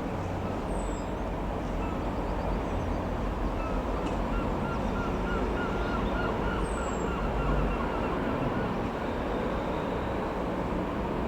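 Steady rumble of a Piper PA-28-161 Warrior II's four-cylinder piston engine running at an even pitch, with faint bird chirps behind it.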